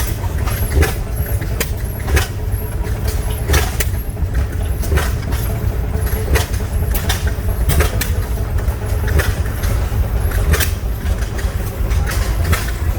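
Several large stationary oilfield gas engines running together: a steady low rumble with sharp exhaust pops that come at uneven intervals, each about half a second to a second apart.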